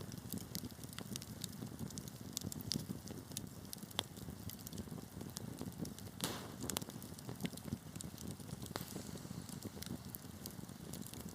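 Wood fire crackling in a fireplace: many irregular sharp pops and snaps over a steady low rumble of burning logs, with a short hiss about six seconds in.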